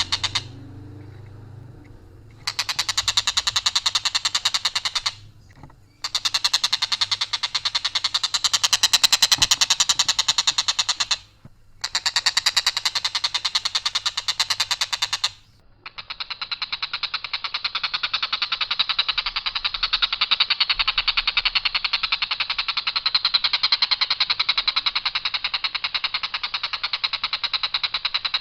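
Tengkek buto kingfisher giving its harsh, rapid rattling call in long unbroken runs, many notes a second on one even line, stopping briefly about two, five, eleven and fifteen seconds in before starting again.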